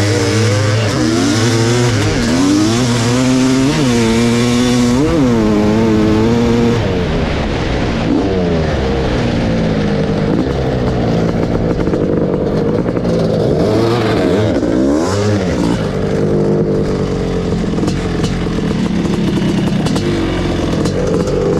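1986 Kawasaki KX500's single-cylinder two-stroke engine breathing through an FMF Gnarly expansion chamber, running and being blipped. Several quick revs rise and fall in the first seven seconds or so, then it runs rougher and steadier, with a couple more revs a little past the middle.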